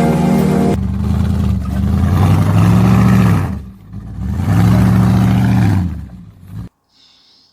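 A car engine revved twice, each rev climbing, holding briefly and falling back, then cutting off abruptly near the end. Music fades out about a second in.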